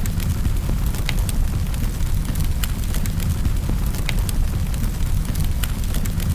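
Wood fire burning in a fireplace: a steady low rumble of the flames, with sharp crackles and pops from the burning logs at irregular intervals, a few each second.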